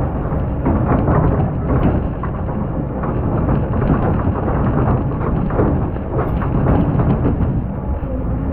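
Excavator digging into hard, compacted sand: a steady low engine rumble under a dense crackle and scraping as the bucket breaks through the packed layer.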